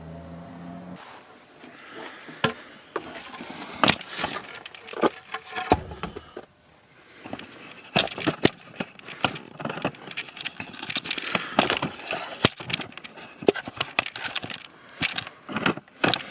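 Wooden boards and parts being handled during a bed-platform build: irregular knocks, clicks and scraping.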